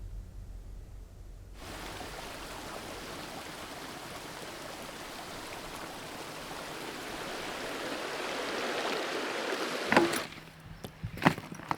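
Rushing water of the Mountain Fork River, a steady hiss that begins abruptly after a low rumble and swells over several seconds, then breaks off with a sharp knock about ten seconds in, followed by a few clicks.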